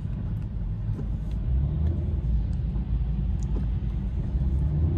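Chevrolet Camaro SS's V8 running with a steady low rumble, heard from inside the cabin, with a few faint ticks over it.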